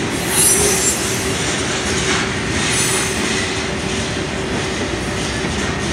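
Freight train of covered hopper cars rolling past close by: a steady rumble and clatter of steel wheels on the rails, with a thin steady tone running underneath.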